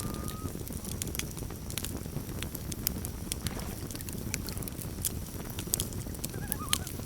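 Campfire crackling and popping over a steady low rumble of burning wood. A faint wavering call of a common loon comes about six and a half seconds in.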